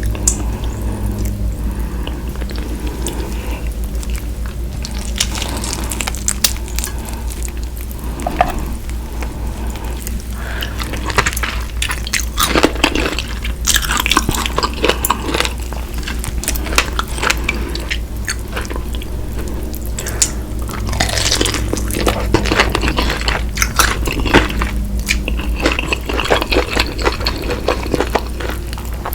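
Close-miked eating of fried chicken and fries: chewing with irregular clicks and crackles, over a steady low hum.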